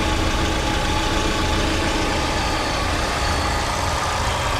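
Lada Largus van's four-cylinder petrol engine idling steadily, heard close up in the open engine bay.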